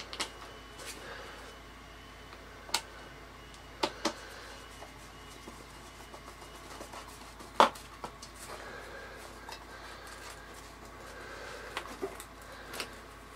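A handful of sharp metallic clicks and clinks from screws and a screwdriver on the floor tool's metal base plate, the loudest a little over halfway through, with quiet handling in between.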